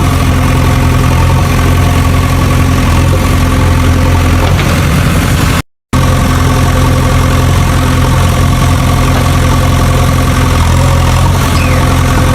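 Engine idling at a steady, even pitch, loud and unchanging, with a sudden cut to silence for a split second about five and a half seconds in before it carries on.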